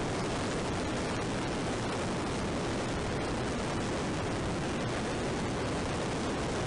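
Steady rushing wind noise on a motorcycle-helmet-mounted action camera's microphone during a ride, an even hiss that does not change.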